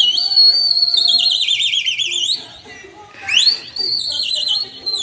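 Two long, loud, warbling whistles by a pigeon flyer signalling to his flock. The first slides down and then sweeps back up; the second, about three seconds in, rises sharply, holds, and dips at the end.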